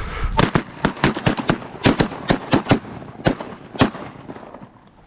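Several shotguns firing a rapid volley together, about a dozen sharp shots in quick succession over roughly three and a half seconds, the last one near four seconds in.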